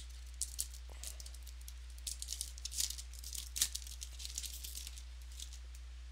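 Trading cards and pack wrappers being handled: a run of light rustles and crisp clicks, busiest in the middle, with one sharper click about three and a half seconds in.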